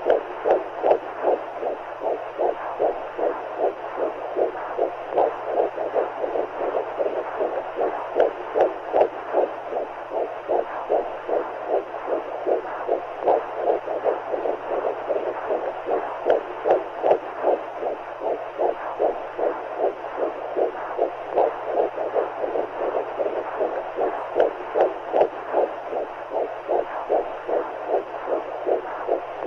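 Womb sound for soothing a baby: a heartbeat pulsing steadily and evenly over a whooshing, muffled rush of noise.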